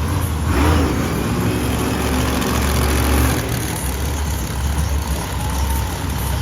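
Monster truck engine running loud and revving, with a heavy low rumble that rises and falls in pitch.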